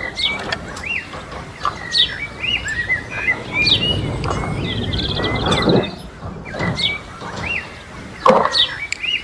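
Small birds chirping over and over in quick, short calls, with a few louder noisy scrapes or knocks about four, six and eight seconds in.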